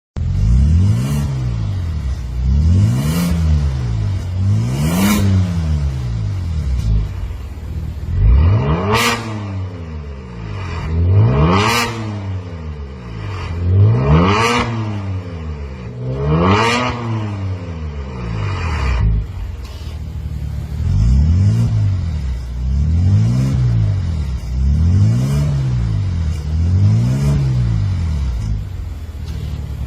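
Genesis G80 Sport's twin-turbo V6 being free-revved repeatedly through a Maintec valved aftermarket exhaust: about eleven short revs that rise and fall back to idle, the middle four, from about eight to nineteen seconds in, climbing highest.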